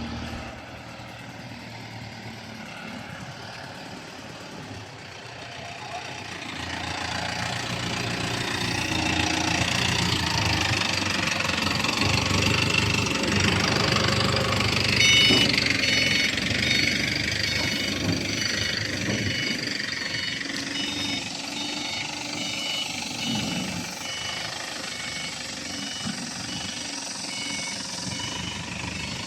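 Diesel engine of a silage harvester running, growing louder about a quarter of the way in and staying strong. About halfway through, a steady series of short electronic beeps starts over it.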